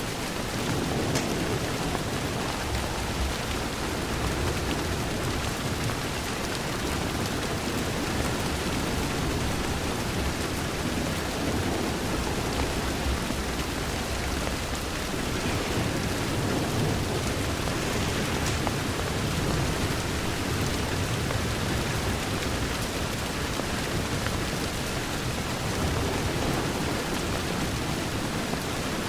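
Steady heavy rain on a window, an even hiss with a low rumble beneath it.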